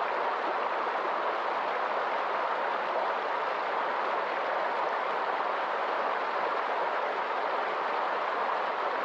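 River water rushing steadily in a fast current, an even noise with no breaks.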